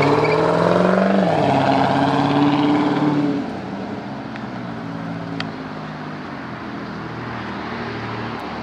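C4 Chevrolet Corvette's V8 accelerating away. Its pitch rises, then drops at a gear change about a second in. It then runs steadily and grows quieter after about three seconds as the car pulls off.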